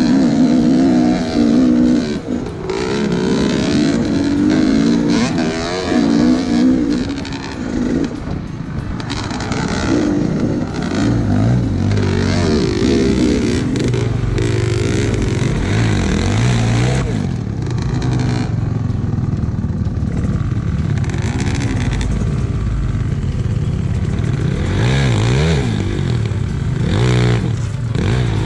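Gas Gas 300 enduro motorcycle engine being ridden, revving up and down with the throttle so its pitch keeps rising and falling. It runs higher for about the first ten seconds, then at lower revs.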